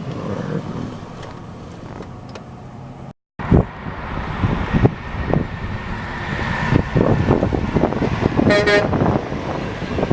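Dump truck engines running amid road traffic, with a brief cut about three seconds in. A short vehicle horn toot sounds near the end.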